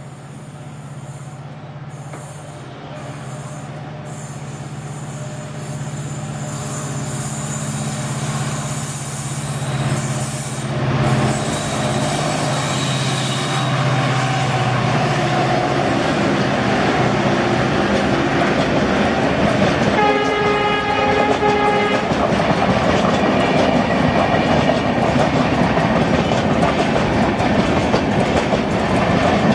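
EMD WDG4 diesel locomotive with its 16-cylinder two-stroke engine passing at speed with a passenger train: a low engine drone grows louder as it approaches, a horn sounds for about two seconds around two-thirds through, and the coaches follow with a loud rumble and clickety-clack of wheels over rail joints.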